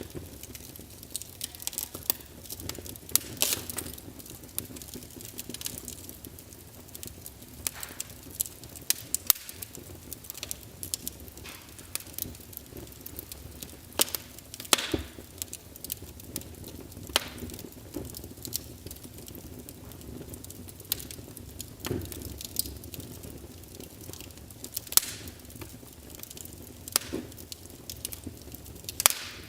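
Logs burning in a fireplace: irregular sharp crackles and pops, a few louder snaps among many small ones, over a low steady rush of the flames.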